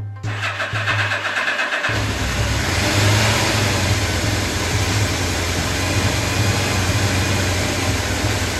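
Motorcycle engine turning over, catching about two seconds in, then running steadily with a brief rise in revs.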